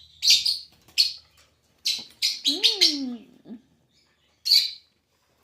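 Lovebirds chirping: short, sharp, high-pitched calls in separate clusters, with a quick run of several about two seconds in and a last single call near the end.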